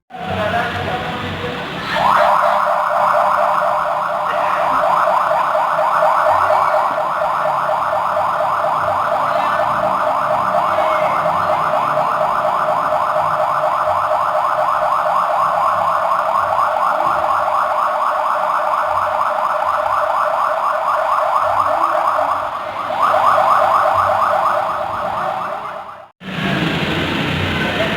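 Police car's electronic siren sounding with a fast, rapidly repeating warble, starting about two seconds in. Near the end the siren pattern changes, then cuts off abruptly.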